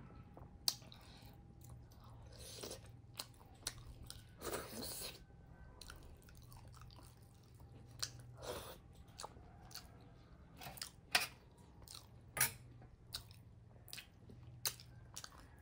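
Chewing and wet mouth sounds of a person eating soft finger-millet dhido by hand, with many scattered sharp clicks, over a faint steady low hum.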